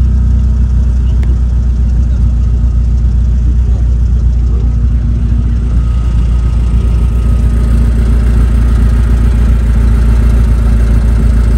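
Car engine idling close by, steady and low-pitched with no revving.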